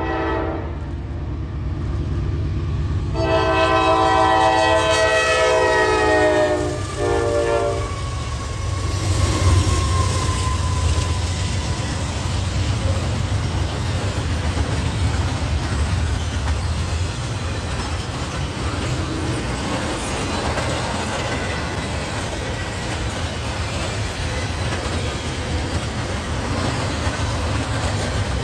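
Freight locomotives sounding a multi-note air horn: a short blast at the start, a long blast from about three seconds in, then a short blast. The locomotives pass with a heavy low engine rumble and a falling tone, followed by the steady rolling noise of double-stack intermodal container cars going by.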